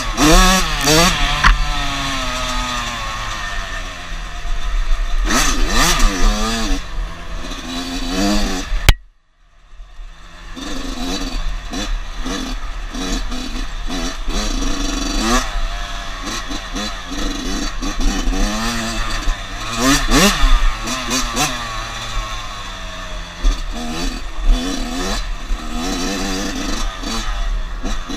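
Dirt bike engine revving up and down as it is ridden, its pitch rising and falling with the throttle again and again, with some clatter over the top. The sound drops out for about a second around nine seconds in.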